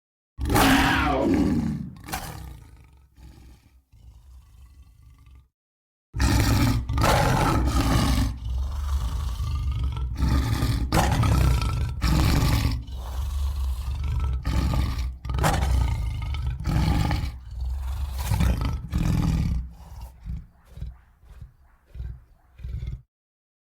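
Leopard snarl and roar sound effects: one falling snarl at the start that fades away, then after a brief silence a long run of loud, overlapping roars and growls, breaking into shorter snarls near the end.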